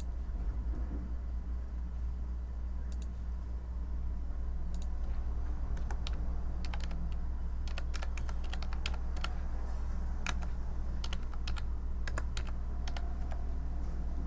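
Typing on a computer keyboard: a few scattered keystrokes at first, then quicker, steadier typing from about a third of the way in, over a steady low hum.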